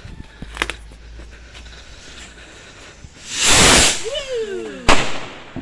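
Firework rocket launching with a loud rushing whoosh that lasts under a second, about three seconds in. A voice exclaims with a falling pitch just after it, and a single sharp bang follows near the end.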